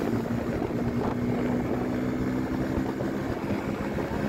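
Motorcycle engine running at a steady speed, a constant engine hum.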